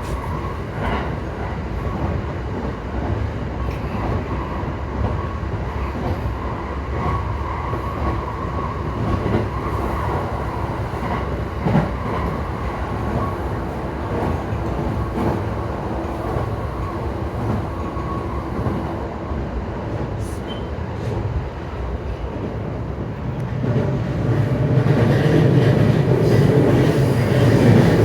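JR East E235 series 1000 commuter train running at speed, heard from inside the car: steady wheel-and-rail noise with scattered rail-joint clicks and a faint steady motor tone from its Mitsubishi SiC-VVVF traction drive. It grows louder about three-quarters of the way through.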